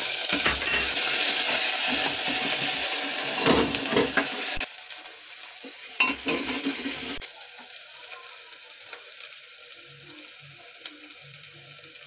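Chopped ginger and garlic sizzling in hot oil in an aluminium pressure cooker, stirred with a metal spoon that scrapes and clinks against the pot. The sizzle is loud for the first four or five seconds, then drops twice to a quieter, steady frying hiss.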